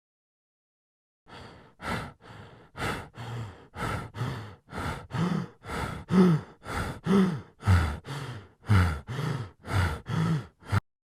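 A person breathing hard in a string of short, breathy gasps and sighs, about two a second, some with a falling voiced tone, starting about a second in.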